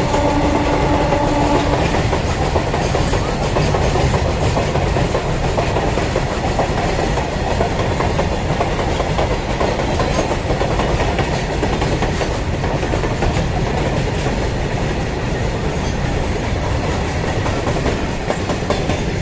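A heavily loaded freight train's wagons rolling steadily past at speed, with the clickety-clack of wheels over rail joints and a continuous rumble. A short pitched tone sounds in the first two seconds.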